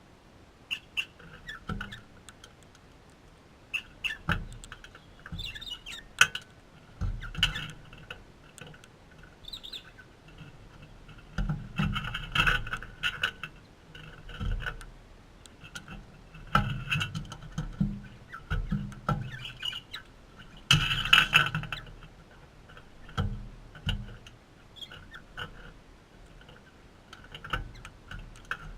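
Galahs (pink-and-grey cockatoos) making short, repeated calls at irregular intervals, mixed with sharp clicks and soft knocks; the loudest burst comes about three-quarters of the way through.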